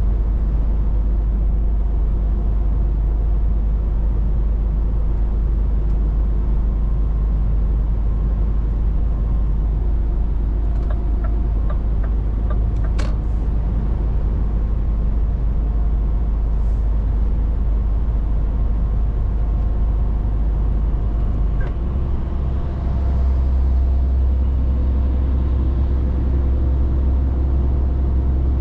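Scania 500S truck's diesel engine running steadily under way, with a low drone and a few light clicks about halfway through. Near the end the drone dips briefly and settles at a different pitch.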